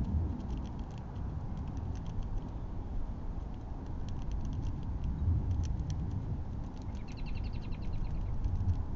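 Backyard trail-cam ambience: quick light clicks and ticks over a steady low rumble, with a short, rapid chirping trill about seven seconds in.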